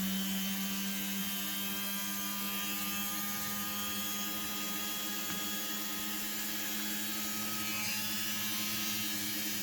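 Handheld electric rotary tool (micro motor) running at a steady speed, with an even whine.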